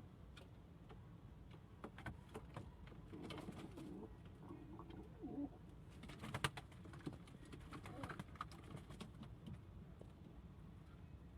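Domestic pigeons cooing softly, with scattered sharp clicks and taps; the loudest click comes about six and a half seconds in.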